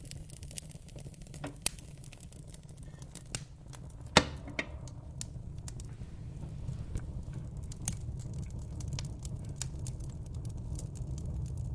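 Wood fire in a fireplace crackling, with irregular sharp pops and snaps over a low rumble of flame; one loud pop about four seconds in.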